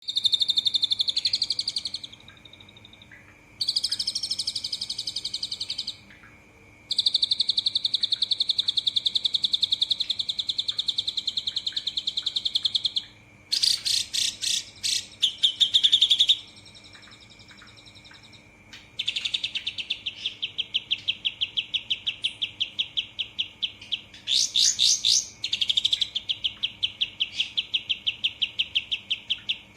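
Cililin songbird singing long, fast trilled phrases, each a few seconds of rapidly repeated notes, with short pauses between them, in the continuous jalak suren (Asian pied starling) style. A faint steady high tone runs underneath.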